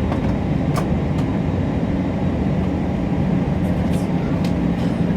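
Airbus A321 airliner heard from inside the cabin: a steady, loud rumble of the jet engines and wheels on the runway, with a low hum and a few faint rattles.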